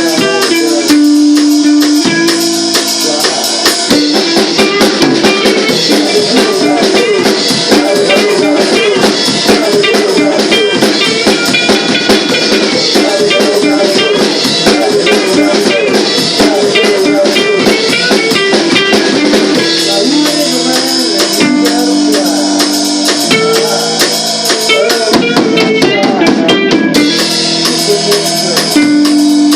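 A rock band playing at practice: guitar over a drum kit keeping a steady beat, with no singing.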